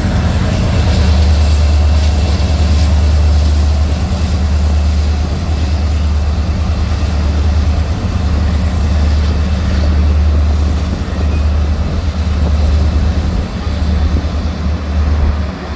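Union Pacific manifest freight train rolling past at close range: a loud, steady, heavy low rumble with no breaks.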